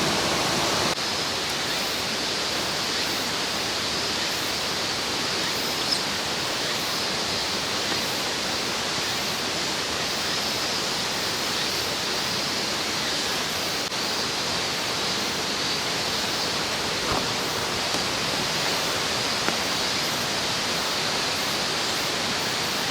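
Mountain stream flowing, a steady even rush of water with a few faint clicks.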